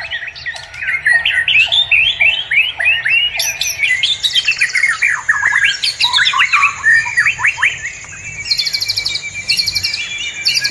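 Several birds chirping and squawking together, a dense run of quick rising and falling calls, with a rapid trill that comes back several times near the end.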